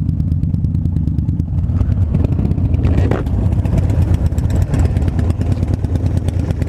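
Motorcycle engines running steadily at low speed as several bikes ride together in formation, with no clear revving.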